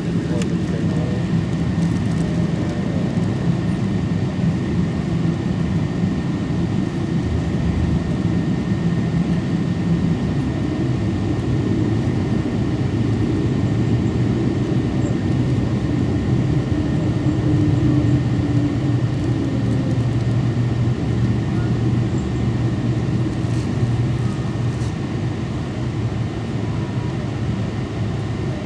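Cabin noise inside a Boeing 777-224 airliner heard from a window seat: the steady rumble of the jet engines and airframe, with a low hum that shifts lower about ten seconds in.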